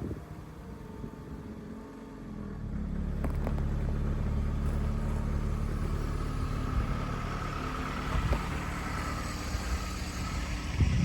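A car engine running with a steady low rumble that gets louder about two and a half seconds in, with a few light clicks.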